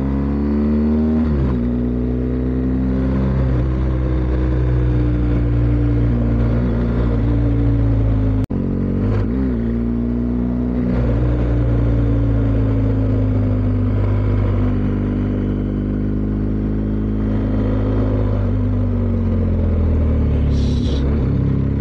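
BMW R1250GS Adventure's boxer-twin engine under way, revs rising and falling as the rider works through the gears, with wind rushing over the microphone. The sound cuts out for an instant a little after eight seconds in.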